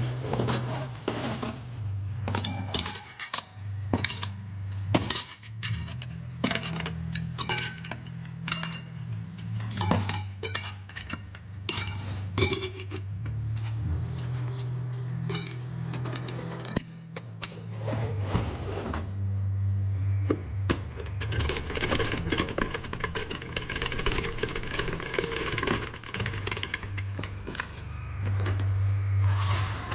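Irregular metallic clinking and tapping, over background music with a low bass line.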